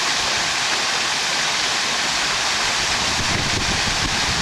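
Rain-style pool waterfall: water dropping off a rock ledge in many separate streams and splashing onto the pool surface, a steady hissing rush of water, a lot of noise.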